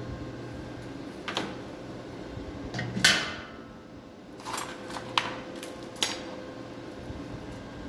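A few sharp metallic clanks and knocks, the loudest about three seconds in with a short ringing tail, over a steady faint hum.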